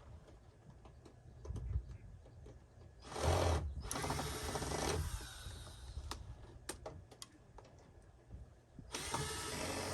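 Power drill-driver whirring in two bursts, the first about two seconds long and the second about one second near the end, with a few sharp clicks in between, as screws are backed out of a wooden door.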